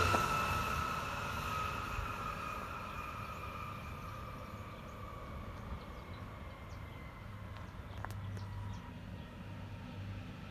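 A passing train fading into the distance, its high whine sliding slowly down in pitch as it recedes.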